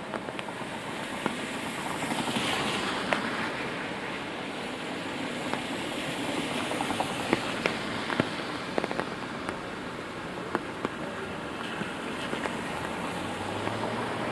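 Steady rainfall hiss with large drops tapping irregularly and sharply on an umbrella overhead, and a swell of hiss about two seconds in.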